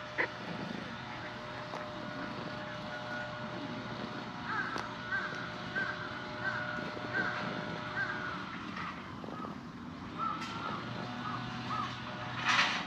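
A bird calling in the background: two runs of short, evenly repeated calls, the first about halfway through, the second shortly after, over a steady low background hum. A brief louder sound comes near the end.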